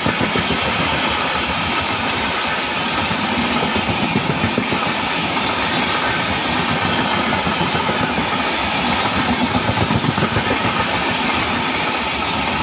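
LHB passenger coaches rolling past close by: a steady rumble of steel wheels on the rails, with bunches of rapid clickety-clack as the coaches' wheelsets pass, about four seconds in and again near ten seconds.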